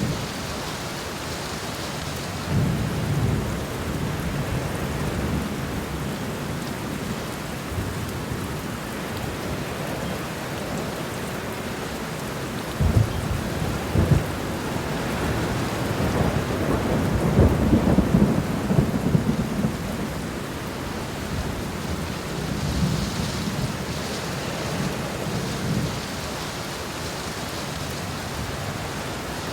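Steady rain falling, with low rumbles of thunder coming and going; the longest and loudest rumble rolls through the middle.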